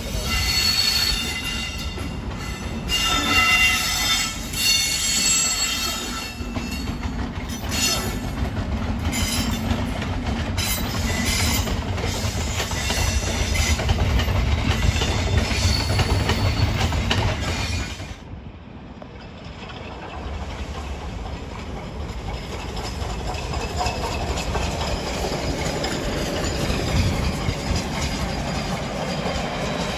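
Freight train passing: a class 60 diesel locomotive and its wagons rumbling by, with wheels screeching in high squeals that come and go. About eighteen seconds in the sound drops away suddenly, and a quieter, steady rumble of another train rolling by follows.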